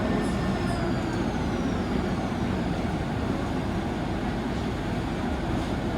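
Steady low machinery drone inside a tour submarine's passenger cabin: motors and ventilation running. A faint high tone glides downward in the first two seconds or so.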